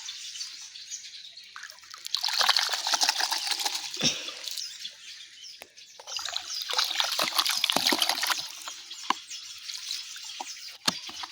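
Water splashing and trickling, with two louder spells of splashing.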